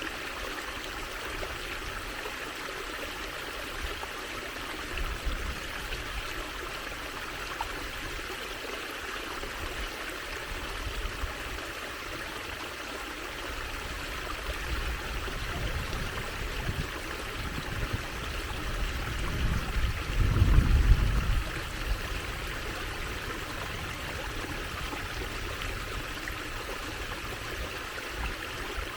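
Water trickling and flowing steadily, like a small stream. A low rumble swells and fades about two-thirds of the way through.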